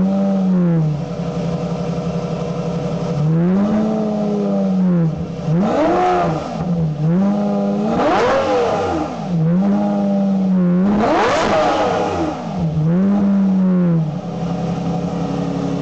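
Lamborghini Murciélago V12 through a straight-through MS Racing exhaust with its catalytic converters removed, revved from idle in six quick blips, the highest around the middle, each falling straight back to idle. Extremely loud, F1-like exhaust note.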